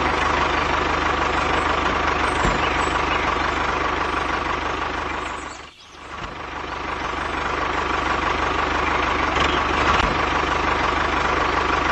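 Truck engine running steadily, dipping away briefly about halfway through and then coming back up.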